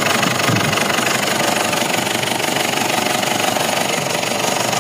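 Mazda BT-50's 3.0 litre WE turbodiesel idling with a steady, rapid diesel clatter.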